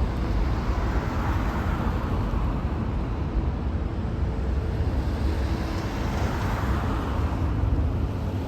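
Steady low rumble of distant engines, with a gentle swell in the noise twice.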